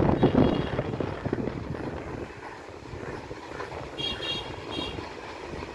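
Southern Railway EMU local train running at the station: a steady rumble, loudest at the start, with a few brief high-pitched tones about four seconds in.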